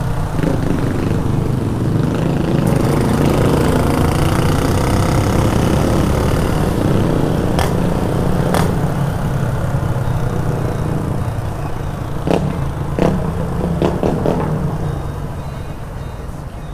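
Yamaha XJ6's inline-four engine running under the rider as the motorcycle is ridden, its pitch rising as it accelerates from about two seconds in to about seven seconds, then easing off toward the end. A few sharp clicks come through about eight seconds in and again near twelve to fourteen seconds.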